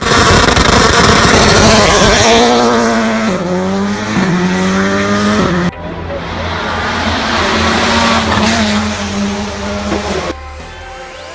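Racing-car engine revving, its pitch wavering and stepping up and down, with a noisy hiss over it in the first couple of seconds. It cuts out sharply about six seconds in, comes back, and fades out about ten seconds in.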